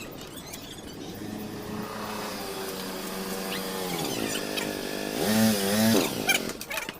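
A motor running whose pitch sags and recovers, then rises and falls twice in quick succession and winds down sharply about six seconds in.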